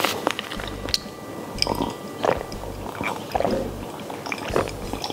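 Close-up eating sounds picked up by a clip-on microphone: chewing with wet mouth clicks, then swallows as a drink is taken from a glass near the end.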